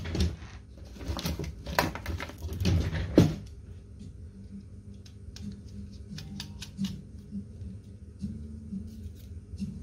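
Clicks and knocks of laptop parts and tools being handled during disassembly, a cluster of sharp knocks in the first three seconds, then light scattered ticks over a low hum.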